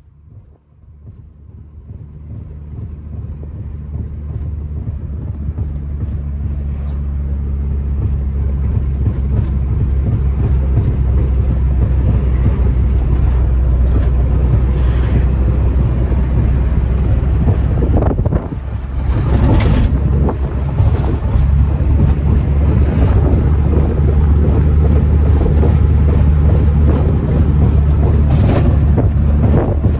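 A steady low drone like a running engine, fading in over the first several seconds, with two brief louder noisy flares in the second half.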